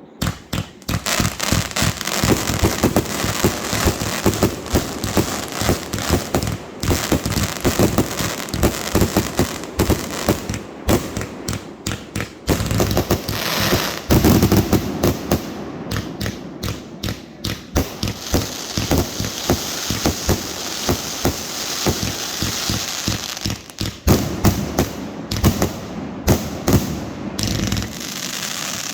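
Fireworks going off in rapid succession, many sharp bangs a second with crackling between them, in a dense barrage that keeps up throughout.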